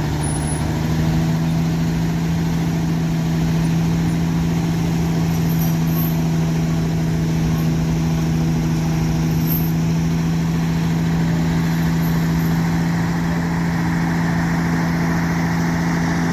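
Heavy tow truck engine running steadily at a constant speed, with an even hum that holds the same pitch throughout.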